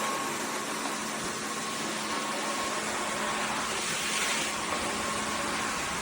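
Dreame H12S wet-dry vacuum running: a steady rushing motor and suction noise with a thin high whine, swelling briefly about four seconds in.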